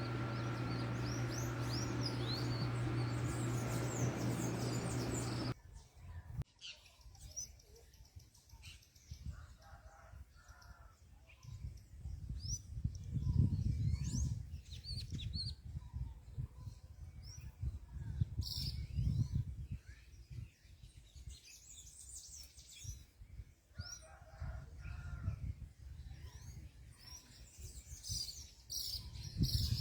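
Small birds chirping at a fruit feeder, short high calls scattered throughout. A steady low hum runs under the first five seconds and cuts off suddenly. Irregular low rumbles, like wind on the microphone, come and go after it.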